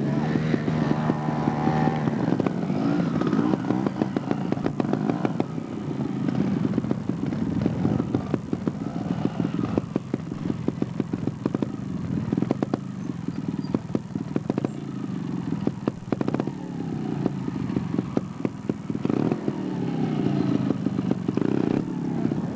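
Vehicle engines running, their pitch rising and falling as they rev, with scattered clatter.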